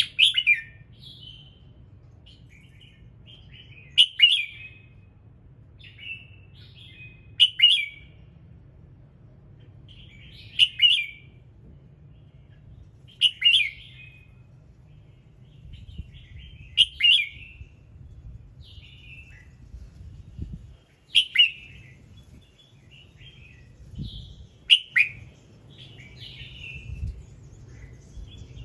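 Red-whiskered bulbul singing: short, loud warbled phrases repeated about every three to four seconds.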